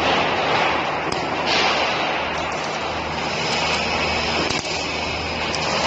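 Automatic rebar cage welding machine running: a dense, steady hiss over a low, even hum, with a few sharp clicks.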